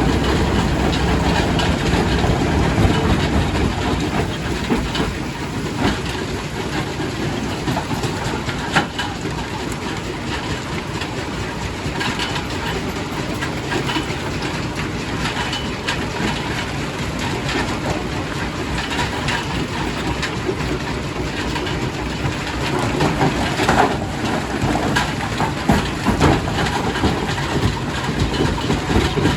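Primary rock crusher running, a steady heavy rumble and clatter with scattered sharp knocks as rock is broken, a few louder knocks about nine seconds in and again near the end.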